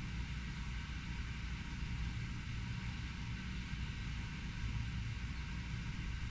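Steady low rumble of distant urban traffic, with an even hiss above it and no distinct events.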